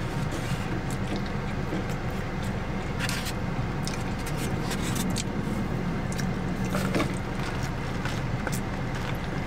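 Close-up eating sounds: chewing noodles with small wet mouth clicks and squishes, then sipping a drink through a straw near the end. Under it runs a steady low rumble from a passing car.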